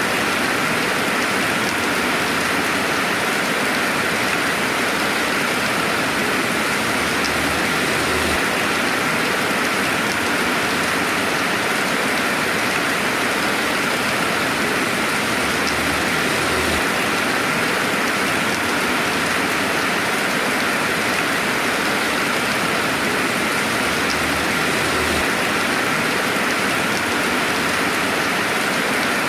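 Steady rainfall, a continuous even hiss of rain falling on surfaces, with no thunder.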